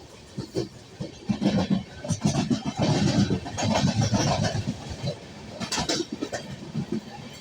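Passenger train running, its wheels and carriages rattling and clattering, loudest from about a second in until past the middle.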